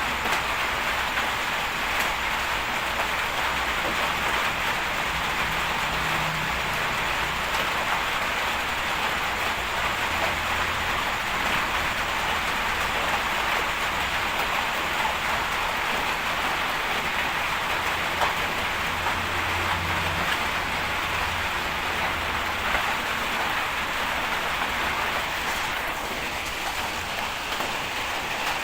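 Steady rain falling, an even continuous hiss, with a faint low hum now and then.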